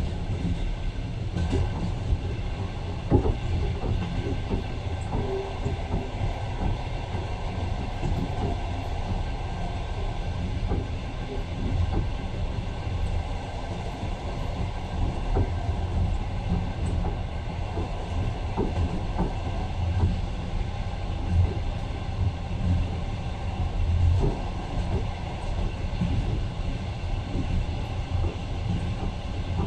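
Passenger train running along the track, heard from inside the carriage: a steady low rumble with scattered knocks of the wheels over the rails.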